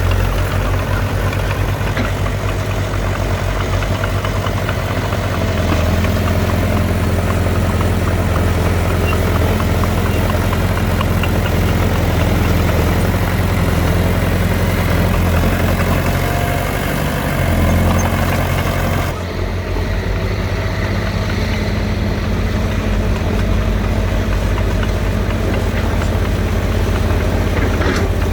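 Heavy diesel engines of earthmoving machinery running steadily, with a deep low drone. The engine sound changes abruptly about two-thirds of the way through, then runs on.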